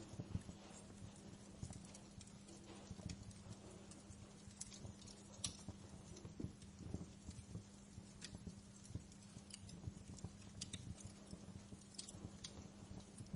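Wood fire crackling in a fireplace: irregular sharp pops and snaps over a low rumble, with a faint steady low hum underneath.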